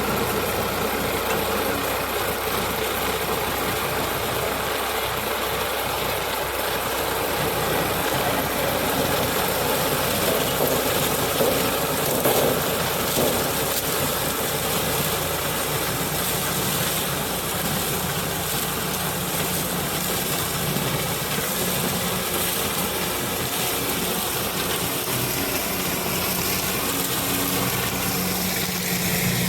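Sugarcane harvester running steadily at work: a constant engine note under a dense mechanical noise.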